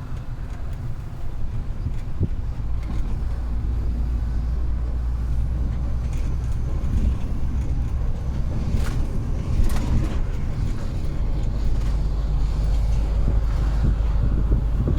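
Heavy truck driving: a steady low engine drone with road noise, broken by a few brief rattles or clicks.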